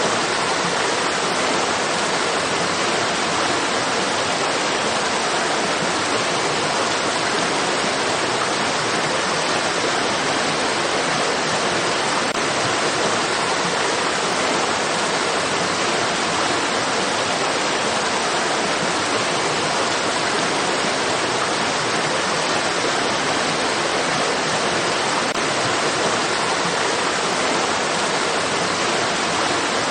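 Flowing stream water rushing steadily, an even, unbroken hiss with no single splashes standing out.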